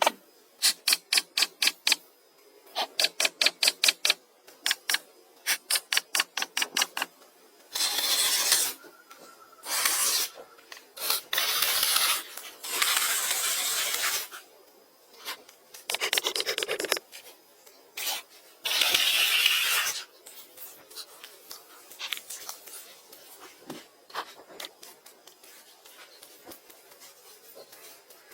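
A hand tool working wood. Quick, rhythmic rasping strokes come in short runs, then give way to longer, louder scraping strokes of about a second each. Near the end only faint scattered taps remain.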